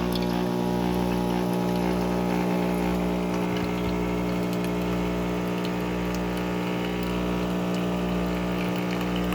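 Bosch Tassimo T47 pod coffee maker's pump running while it brews, a steady hum with a low throb about once a second.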